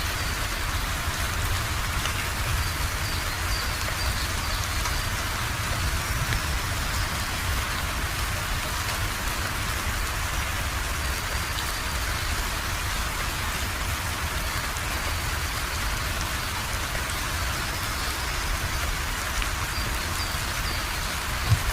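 Steady rain falling and pattering on a surface, an even hiss with a deep low rumble underneath. One sharper, louder tap near the end.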